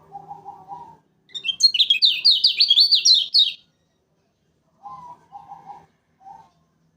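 Kecial kuning singing a loud, fast burst of about eight sharp, downward-sweeping high notes lasting a couple of seconds. Lower-pitched, buzzier calls come just before and after it.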